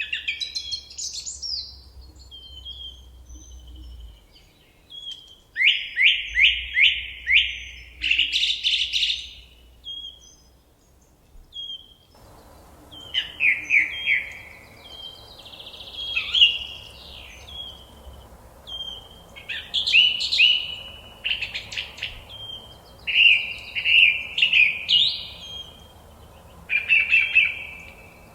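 Songbirds singing in short phrases of quick, repeated high notes, several phrases overlapping and answering one another. About twelve seconds in, a faint steady background hiss comes in under the song.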